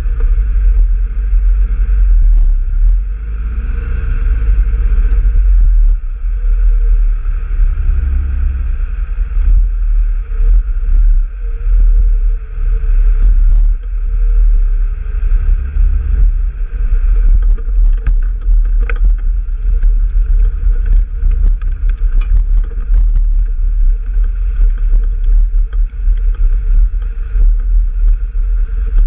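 Vehicle engine running steadily on a trail ride, with heavy low rumble and occasional knocks and rattles.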